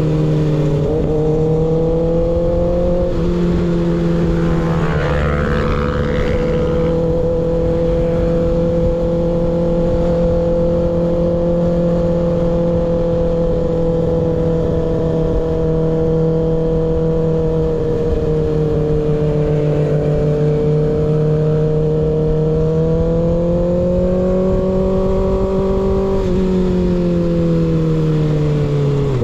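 Kawasaki ZX-6R inline-four engine with a baffle-less M4 GP19 slip-on exhaust, running at steady cruising revs. The revs climb gently a few seconds before the end, then fall back. A brief rush of higher noise comes about five seconds in.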